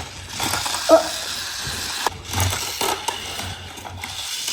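Plastic toy pieces clicking and clattering as they are handled and fitted together, in a handful of separate knocks.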